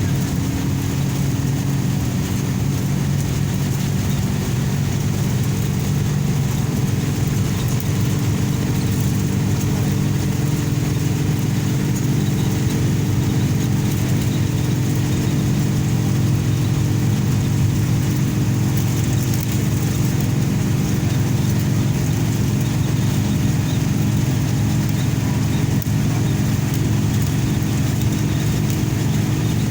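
Steady drone of a motor vehicle's engine with road and tyre noise, driving at an even pace along a smooth highway.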